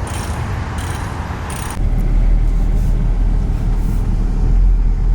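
A vehicle engine running. About two seconds in, the sound changes abruptly to a louder, deep steady drone.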